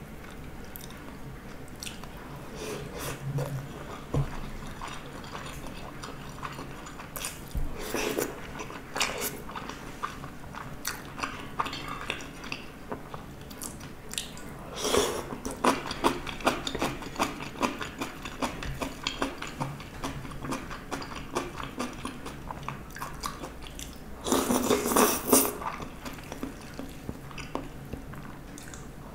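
Chewing and wet mouth sounds of someone eating spicy stir-fried gopchang, many small clicks and smacks, with louder bursts about halfway through and again near the end.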